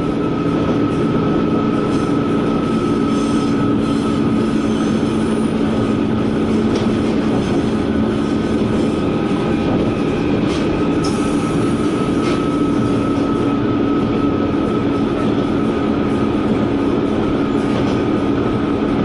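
KiHa 120 diesel railcar under way, heard from inside the car: a steady engine drone mixed with wheel-on-rail noise, a thin high steady whine, and a few faint clicks from the track.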